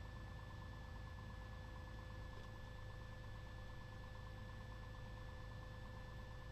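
Cessna 182's piston engine and propeller droning steadily, heard from inside the cabin, with a steady thin whine above it.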